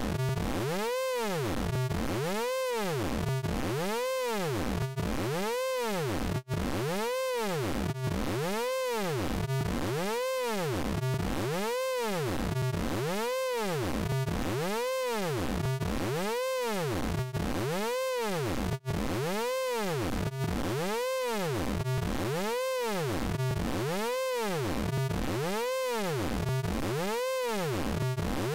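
Synthesized sound effect from the Orange Vocoder VST plugin: a buzzy stack of electronic tones whose pitch sweeps up and back down in a steady, repeating wobble, a little more than once a second. There are two very brief dropouts in the loop.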